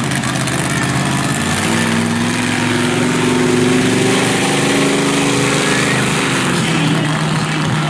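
Monster truck engine running hard, its pitch stepping up about two seconds in, holding, then dropping back near the end.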